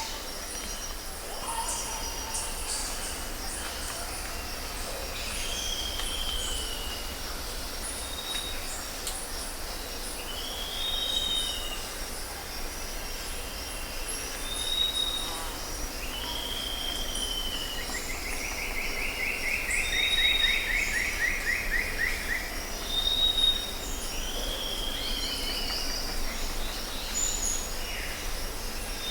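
Birds calling and singing: short high whistled notes repeating every couple of seconds, falling slurred calls, and a fast trill lasting a few seconds near the middle, over a steady low rumble.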